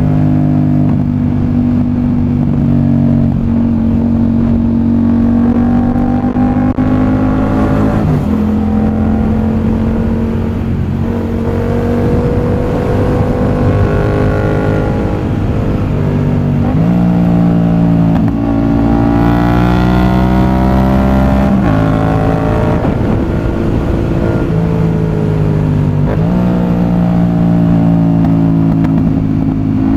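Yamaha MT-07's CP2 parallel-twin engine through an aftermarket exhaust, heard from the rider's seat while riding. The engine note climbs and drops several times with throttle and gear changes.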